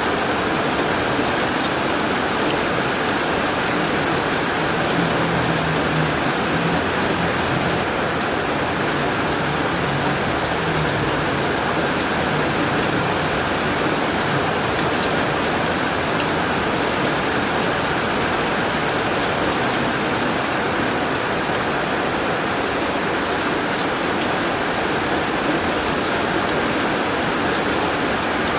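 Heavy rain falling steadily on a tin roof, a dense unbroken patter with scattered sharper drop ticks.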